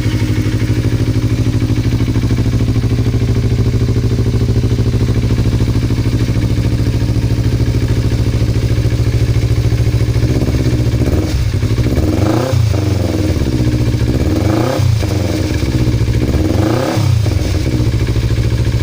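Kawasaki Z250 motorcycle engine running through a Rebel Evo aftermarket exhaust, idling steadily, then revved three times in the second half, each rev rising and falling back to idle.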